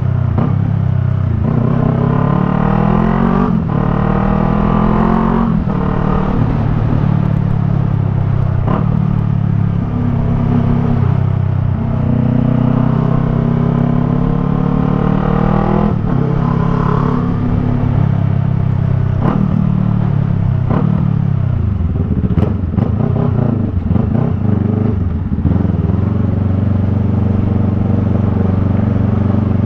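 Yamaha MT-03's parallel-twin engine through a Jeskap R3 Cup aftermarket exhaust, ridden under way: its pitch climbs through the revs and drops back again and again as the throttle opens and the gears change.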